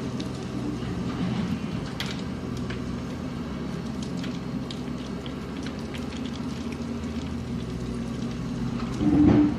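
A heavy vehicle's engine running steadily, with scattered clicks and knocks over it and a brief louder burst about nine seconds in.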